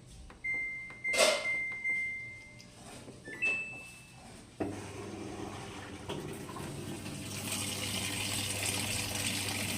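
Washing machine control-panel beeps, first a long one and then a short higher one. About four and a half seconds in, the water inlet valve opens with a click and a steady hum, and water rushes into the machine, growing louder: the restored valve is letting water in.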